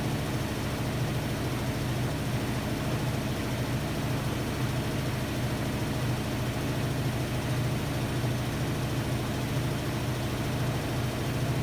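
Hotpoint-Ariston AQD972F 697 washer-dryer running steadily mid-cycle: a constant low hum with an even hiss over it.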